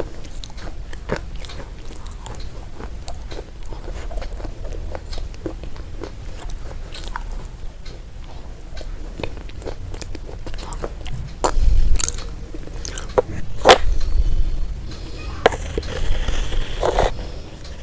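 Close-up crunching and chewing of crunchy food: a dense, irregular run of sharp crunches, growing louder and heavier in the second half.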